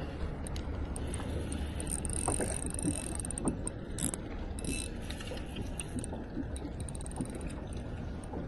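Fishing reel clicking and whirring in quick runs of small ticks as a hooked bream is wound in to the kayak.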